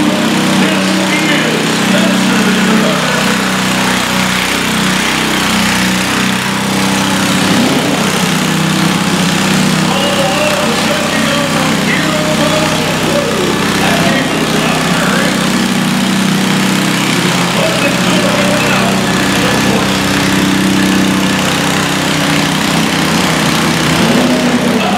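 Lawn tractor engine running loudly at a steady speed, with faint voices underneath.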